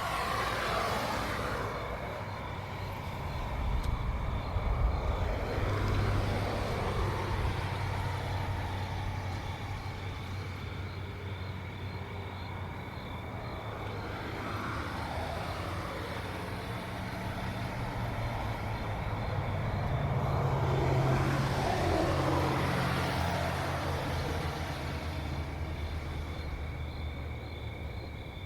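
Cars driving past one after another, about four passes, each rising and then falling away in pitch, over a steady low engine hum. Insects chirp steadily throughout.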